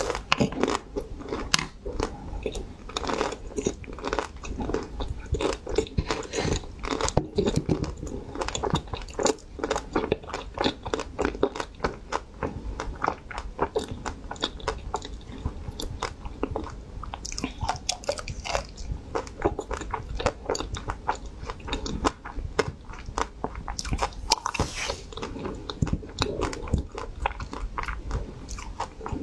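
Close-miked chewing of a bite of frozen ice cream bar: a steady, dense run of crunches and clicks as the hard-frozen ice cream is broken down in the mouth.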